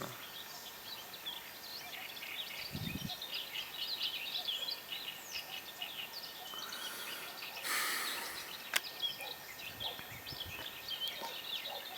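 Small birds chirping and twittering throughout. A short rush of noise comes about eight seconds in, then a single sharp click.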